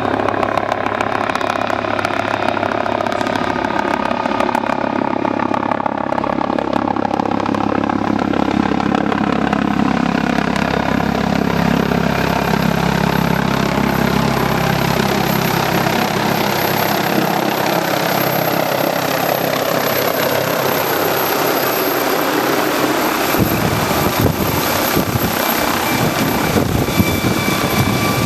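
MD 902 Explorer twin-turbine helicopter running close by, with steady rotor and turbine noise whose pitches slowly fall. The low rotor beat drops away about 23 seconds in, leaving mainly the high turbine whine.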